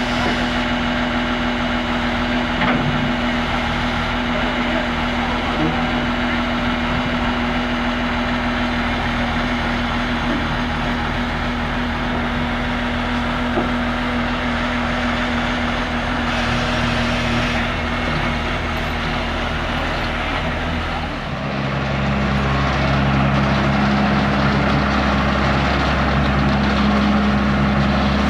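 Big John Deere rubber-tired loader's diesel engine running steadily. About three quarters of the way through its note changes and it gets louder.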